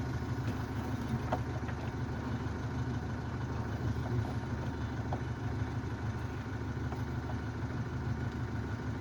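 Steady low mechanical rumble, like an engine running at idle, with a few faint clicks and taps.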